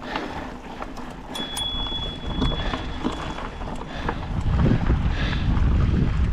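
Wind rumbling on the action camera's microphone, stronger in the second half, with scattered light clicks. A thin steady high tone sounds for about two seconds near the start.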